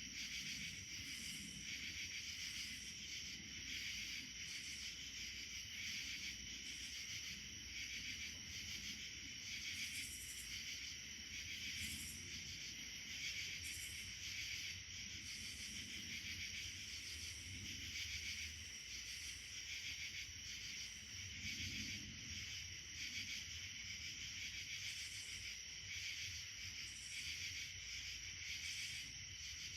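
Steady, high-pitched chorus of insects trilling continuously, with a faint low rumble underneath.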